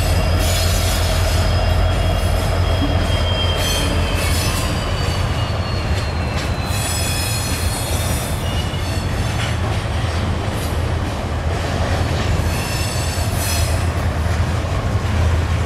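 Union Pacific freight train rolling past, its steel wheels rumbling steadily on the rails. High-pitched wheel squeal rides on top, some tones sliding slowly lower over a few seconds near the middle.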